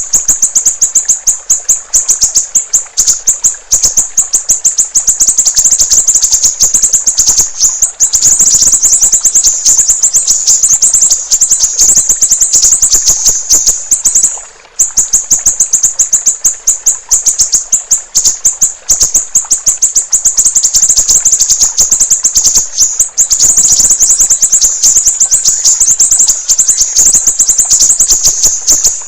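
Siri-siri bird singing: a loud, very rapid, high-pitched trill of evenly repeated notes that breaks off briefly about halfway through, then carries on.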